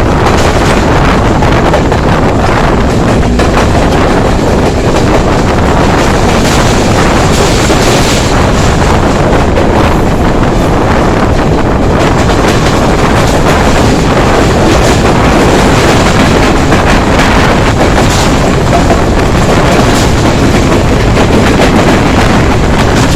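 Wind buffeting the microphone over the running noise of a moving passenger train: a loud, steady rush.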